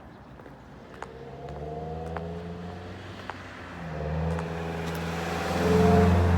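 A car driving by on the street: its engine starts about a second in and grows louder toward the end, with a few light clicks.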